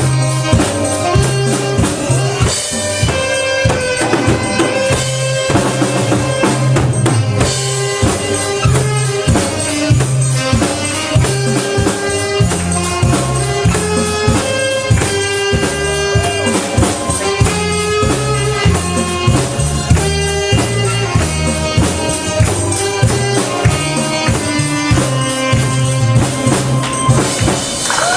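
Saxophone and drum kit playing an upbeat song together: a held melody line over a steady drumbeat and a bass line.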